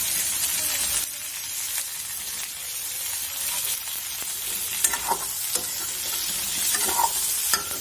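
Hilsa fish curry sizzling in a metal pan as a metal spoon stirs it, with a few sharp scrapes and clinks of the spoon against the pan in the second half.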